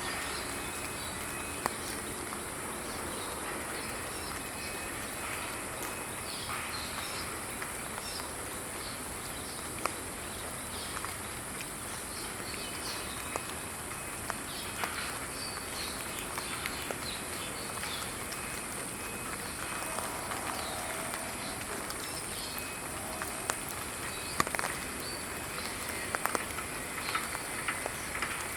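Outdoor ambience: small birds chirping now and then over a steady high-pitched hiss, with a few sharp clicks scattered through.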